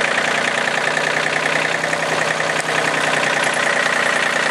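John Deere 790 compact tractor's three-cylinder diesel running steadily, with a high whine over the engine note that grows stronger about three seconds in.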